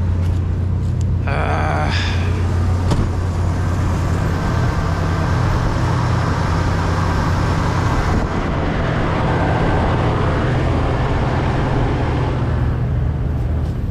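Toyota 4Runner engine running, a steady low drone, just after an alternator replacement; the engine keeps dying after it is started.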